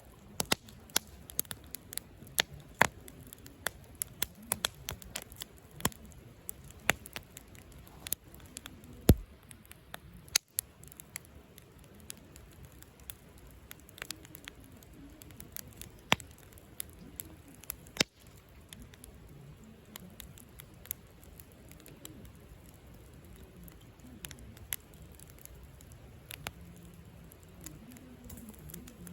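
Wood campfire crackling, with sharp pops from the burning wood that come thick and fast for about the first ten seconds, then thin out to an occasional pop.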